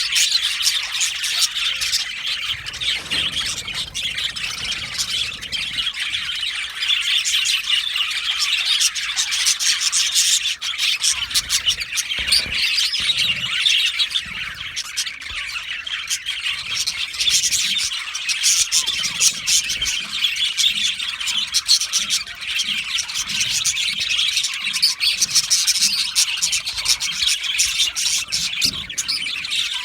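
A colony of budgerigars (budgies) chirping and warbling together in an aviary, a dense, continuous chatter of many birds at once.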